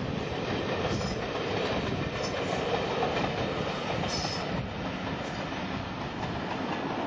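Passenger train coaches rolling past on the track, their wheels rumbling and clattering over the rails, easing off a little as the last coach goes by and moves away.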